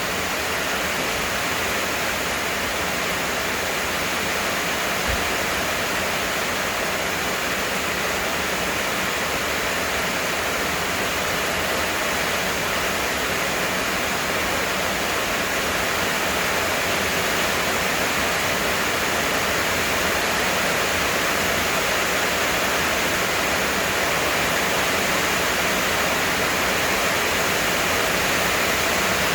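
Heavy rain falling, a steady dense hiss of rain with no breaks.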